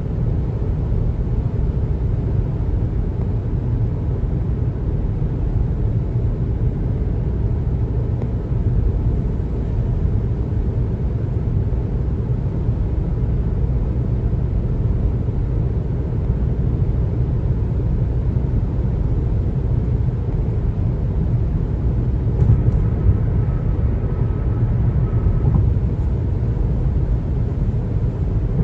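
A car driving: a steady low rumble of tyres on the road and engine. A faint high steady tone joins in for a few seconds near the end.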